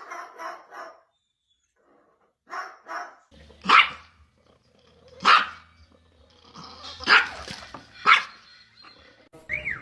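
A dog barking: a few softer short sounds in the first three seconds, then four loud single barks spaced one to two seconds apart.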